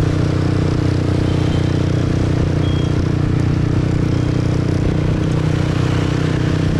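Motorbike engine running at a steady speed while riding, over a constant rush of road and traffic noise.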